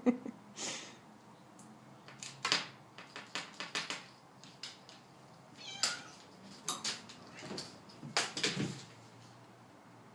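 A house cat makes a few short meows amid scattered clicks and rustles as she plays with a toy bird.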